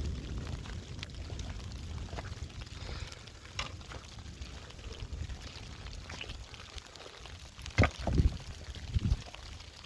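Liquid pouring over a low rumble, with scattered clicks and a few knocks near the end.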